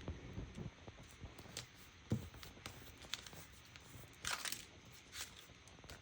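Quiet handling of paper and craft materials: scattered light taps, a dull knock about two seconds in, and a brief papery rustle a little after four seconds.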